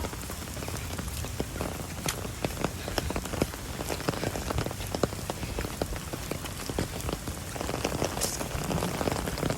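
Rain falling steadily, with many irregular sharp ticks of drops landing close by over a low rumble.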